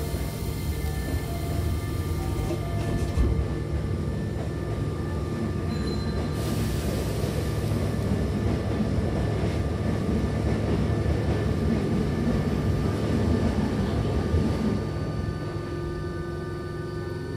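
Hankyu Kyoto Line train heard from inside the carriage: the sliding doors shut with a thump about three seconds in, a hiss sets in about six seconds in, and the train pulls away with a steady rumble of motors and wheels.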